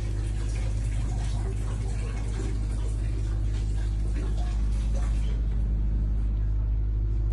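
Steady low rumble, with faint clatter and indistinct voices above it.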